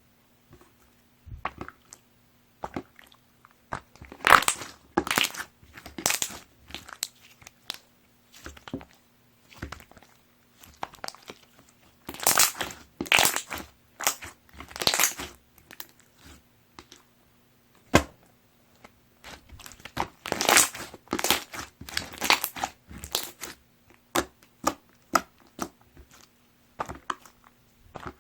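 Opaque slime being squeezed, stretched and pressed by hand, giving clusters of sticky crackles and small popping clicks in bursts of a second or two with short pauses between.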